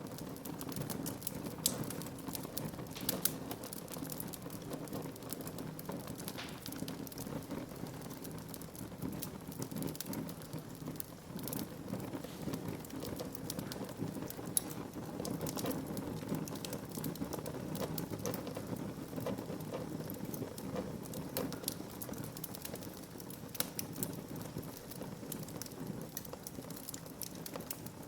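Wood fire crackling in a fireplace: many small, irregular pops and snaps over a steady low rush of burning.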